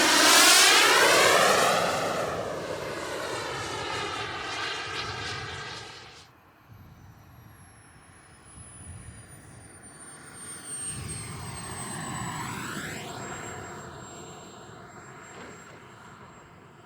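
Turbine-powered RC jet (KingTech 210G5 turbine) making low fly-by passes. A loud pass at the start fades away and cuts off suddenly about six seconds in. A second, quieter pass comes about eleven to thirteen seconds in, with a high turbine whine gliding slowly downward.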